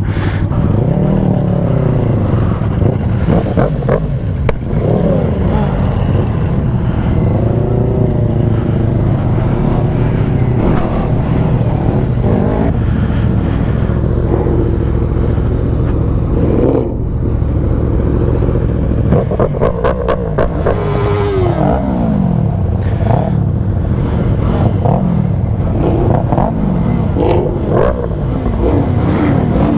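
Sportbike engine running under way, with the pitch climbing and dropping as the throttle opens and gears change.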